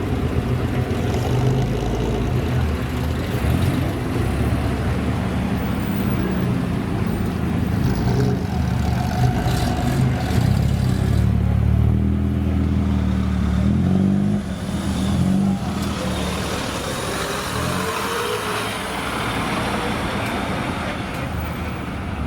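A car engine running. It revs up with a rising pitch from about twelve to fourteen seconds in, then drops off suddenly, and climbs again briefly a little later.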